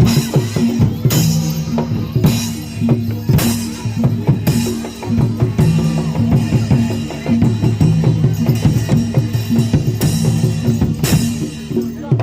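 Live Barongan Blora gamelan music: fast, driving drumming over held low pitched tones, with loud crash-like strokes every second or two.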